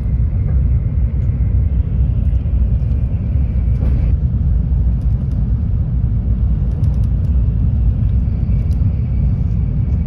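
Steady low rumble of a Shinkansen bullet train's passenger cabin at speed, with a few faint light ticks.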